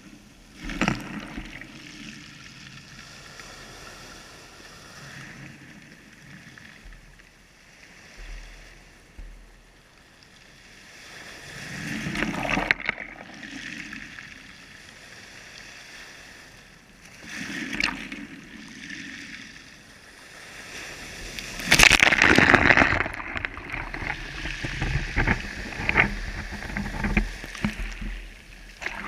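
Water sloshing and splashing in irregular surges, the loudest about two-thirds of the way through.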